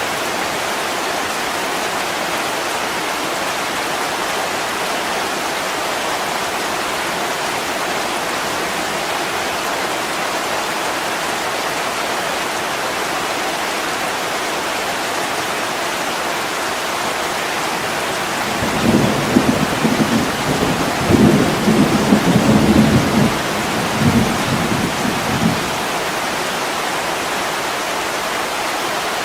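Heavy rain pouring steadily on a window pane, with a roll of thunder rumbling in several swells for about seven seconds, starting roughly two-thirds of the way through.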